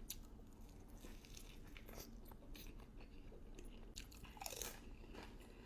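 A person biting and chewing food close to the microphone: faint, scattered crunches and mouth clicks.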